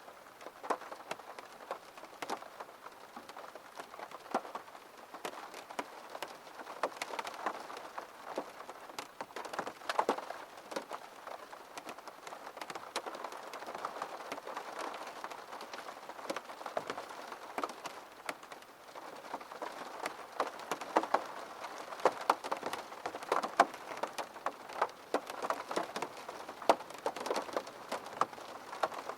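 Rain pattering on a window: a steady hiss of drops with many separate drips and taps striking the glass.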